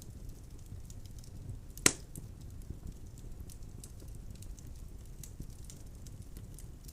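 Wood fire burning in a fireplace: a steady low rumble with light, scattered crackling of the logs, and one loud sharp pop about two seconds in.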